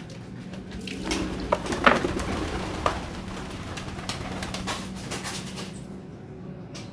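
Domestic pigeons cooing, with a few sharp clicks or knocks between about one and three seconds in, over a steady low hum.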